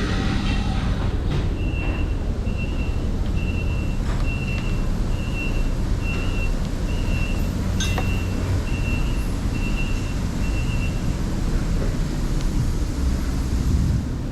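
A vehicle's reversing alarm beeping about once a second over a steady low engine rumble. The beeping stops about eleven seconds in, and there is a single sharp click about eight seconds in.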